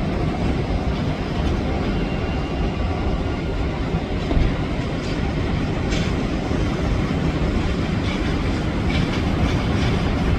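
Jet airliner's engines running at high power, a steady deep rumble with no breaks.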